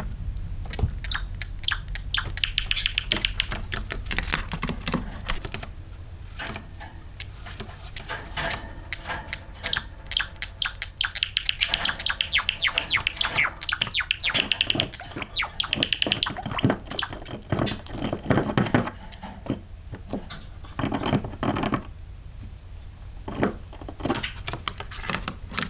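Java sparrow singing: a long run of rapid dry clicks and chirps that build into fast, high trills, several times over.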